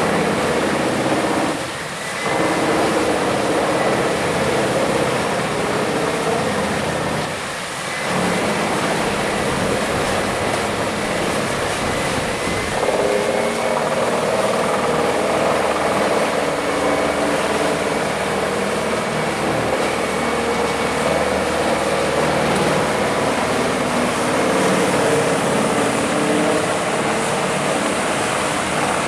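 Wood chipper running under power, a loud, steady mechanical noise with an engine hum. It dips briefly twice, about 2 and 8 seconds in, and its tone changes about 13 seconds in.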